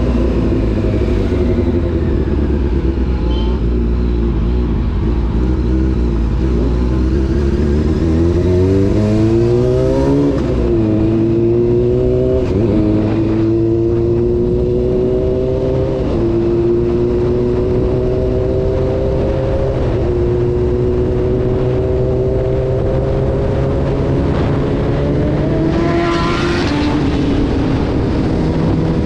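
Honda CBR600 F4 motorcycle's inline-four engine under way. It runs at low revs, then revs up sharply about eight seconds in and eases off around ten seconds. After that its note climbs slowly, with small dips every few seconds.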